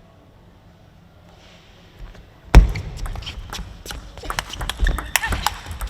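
Quiet arena for about two seconds, then a table tennis rally: the celluloid ball clicking sharply off bats and table, mixed with heavy thuds of players' feet on the court floor.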